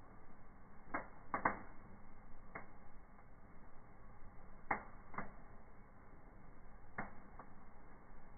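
Wood fire burning in a fireplace, with irregular sharp crackles and pops, about eight of them, some in quick pairs.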